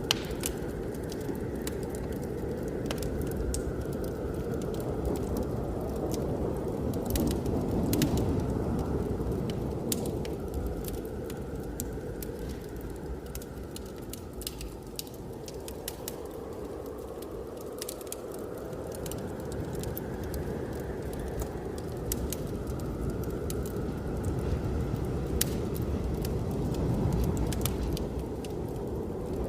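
Wood fire crackling in a fireplace, with scattered sharp pops, over the steady low rush of blizzard wind that swells and eases in slow gusts.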